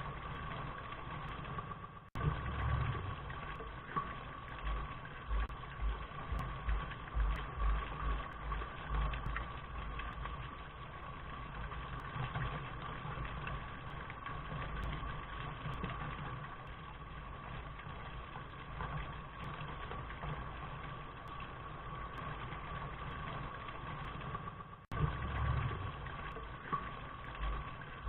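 Steady rain noise with uneven low rumbling underneath. It cuts out for an instant about two seconds in and again near the end, where the loop restarts.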